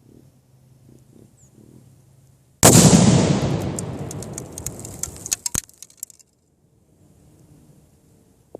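Tannerite exploding target detonating about two and a half seconds in: one sudden, very loud boom that rumbles away over about three seconds, with a scatter of sharp cracks as it fades.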